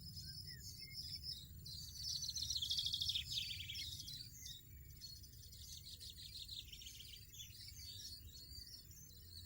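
European goldfinches twittering in rapid high chirps and trills, with a louder, denser burst about two seconds in, over a steady low rumble.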